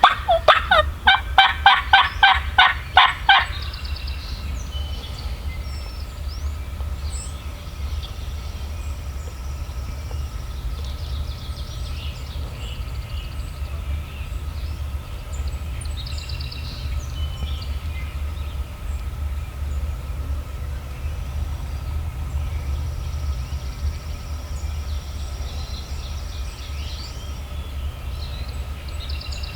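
A loud, quick series of about a dozen turkey yelps in the first three and a half seconds. After that, only a steady low rumble and faint, scattered songbird notes.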